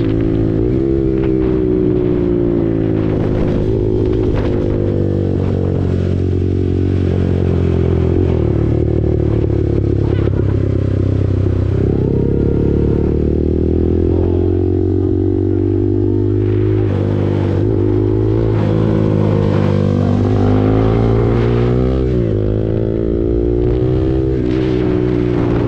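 KTM RC 390's single-cylinder engine through an SC Project aftermarket exhaust, under way: its revs climb and drop again and again, with sharp falls in pitch about a third of the way in, near halfway and near the end.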